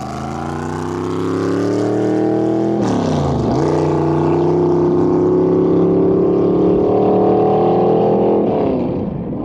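Small-block Chevrolet V8 of a 1936 Hudson Terraplane drag car accelerating hard. The revs climb, drop at a gear change about three seconds in, climb again for several more seconds, then fall away near the end as the throttle comes off.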